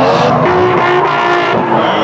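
Drift cars' engines revving hard during a tandem slide, the pitch of several engine notes rising and falling as the drivers work the throttle, over a wash of tyre and exhaust noise.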